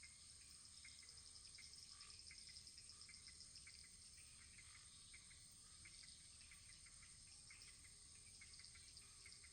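Faint, gently burning wood fire: scattered small crackles and ticks over a soft hiss. A rapid, high-pitched pulsing sits above it, strongest a couple of seconds in.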